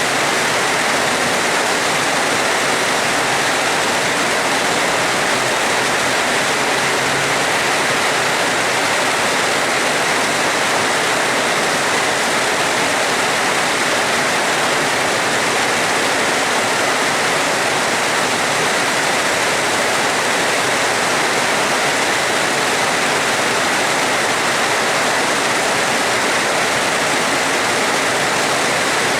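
Steady heavy rain: a dense, even hiss that holds unchanged throughout, with no thunder.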